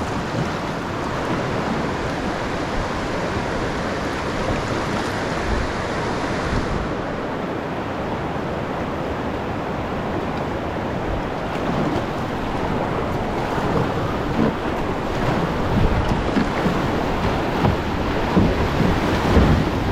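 Rushing river water around a kayak running a shallow rapid, with wind on the microphone. Low thumps come more often in the last several seconds.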